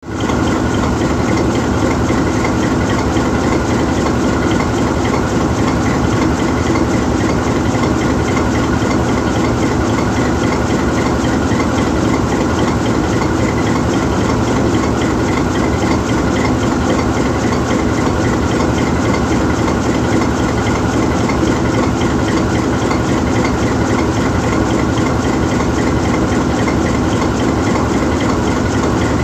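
GE U20C diesel-electric locomotive standing still, its twelve-cylinder 7FDL diesel engine idling steadily.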